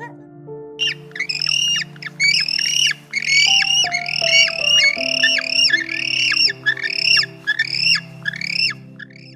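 A bird squawking in a rapid series of harsh, arching calls, about three a second, over background music.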